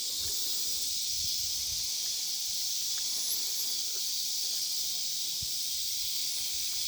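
Steady, high-pitched drone of an insect chorus, unchanging in level.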